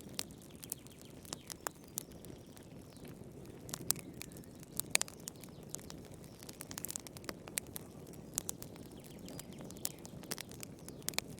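Wood fire crackling in a fireplace: irregular sharp pops and snaps over a low, steady rush of the flames, the loudest pop about five seconds in.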